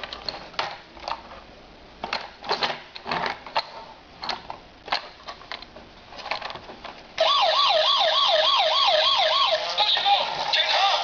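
Scattered plastic clicks and knocks, then about seven seconds in a toy police car's electronic siren switches on loudly: a fast warbling yelp, about four sweeps a second, that changes pattern near the end.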